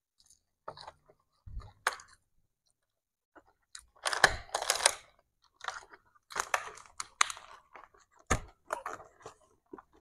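Close-miked chewing and crunching of a mouthful of nasi Padang eaten by hand, in irregular bursts, together with the rustle of the cardboard box and paper liner as fingers pick through the food.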